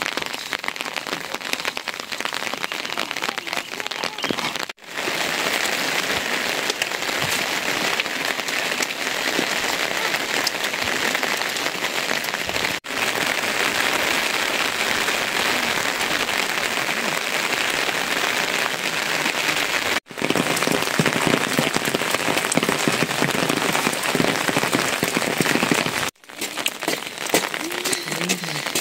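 Steady rain falling, an even hiss that drops out for an instant four times where the clips are joined.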